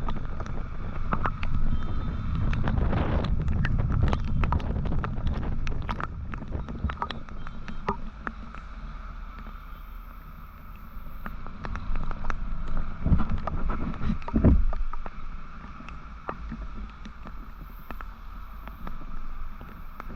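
Wind rushing over the microphone on a moving motorcycle, over a steady low road and engine rumble. The rumble is heavier for the first several seconds and swells twice about two-thirds of the way through, with scattered short clicks throughout.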